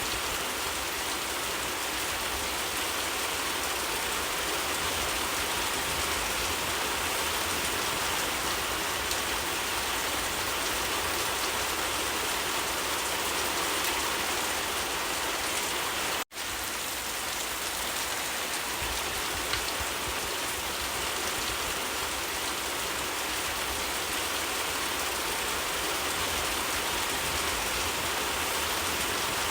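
Steady, dense rain falling and pattering on surfaces. The sound drops out for an instant about halfway through.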